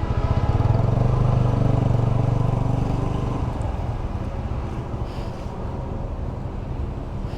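A motor vehicle's engine passes close by: a low rumble that swells over the first second, is loudest for the next couple of seconds, then fades away.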